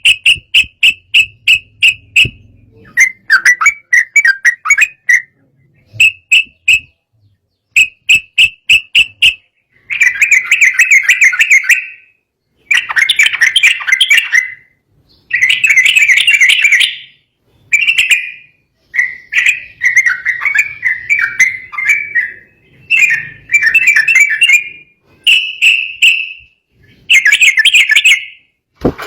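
Yellow-vented bulbul (trucukan) singing loudly in agitated, excited bursts: short, fast, chattering phrases of bubbly notes repeated one after another with brief pauses between them.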